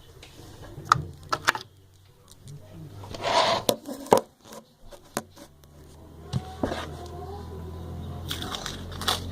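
Handling noises as a miniature motorcycle model is fitted and glued to a wall: several sharp clicks and knocks, a short rustling hiss about three seconds in, then a low steady hum from about halfway.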